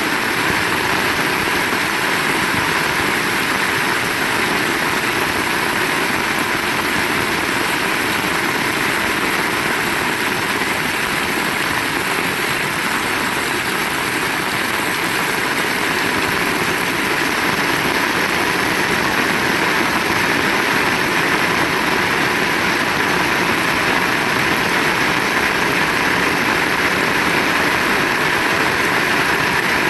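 Heavy rain falling steadily, a dense, even hiss with no let-up or single strikes.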